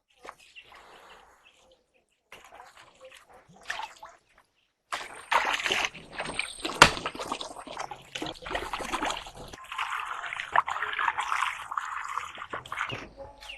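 Water splashing and sloshing in several short stretches, busiest and most continuous from about five seconds in, with a few sharp knocks.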